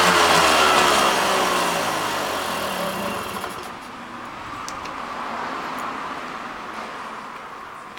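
EZ-9 engine, running on gasoline fed straight in past a clogged carburettor, winding down: its revs fall steadily over the first three seconds and it dies away. A faint hiss with a couple of light clicks follows.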